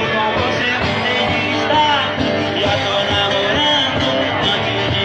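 A live band playing a romantic song, with a steady beat, guitar and a melody line.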